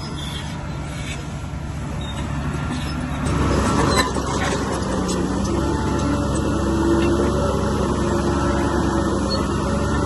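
Heavy diesel engine of earthmoving machinery running under load, getting louder about three seconds in and then holding steady.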